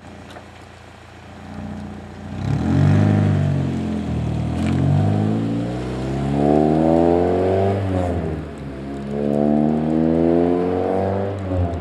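Honda Civic Si's 2.0-litre four-cylinder engine breathing through an aftermarket 4-2-1 header and 3-inch exhaust. It starts at a steady low idle and rises and falls once in a rev. Then twice the pitch climbs steadily for a few seconds and drops sharply.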